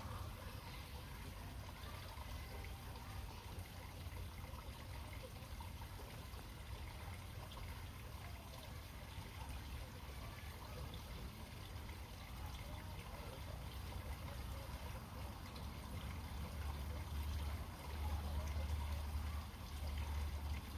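Faint trickling water at a small pond, with a steady low rumble underneath that grows heavier in the last few seconds.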